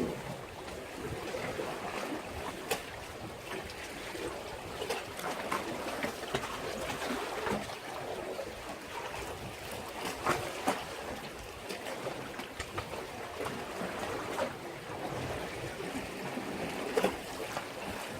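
Sea waves washing and sloshing against a breakwater, a continuous wash broken by frequent short slaps and splashes of water, a few of them louder.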